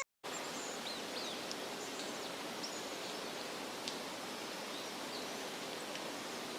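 Steady outdoor background hiss with a few faint, short, high chirps scattered through it.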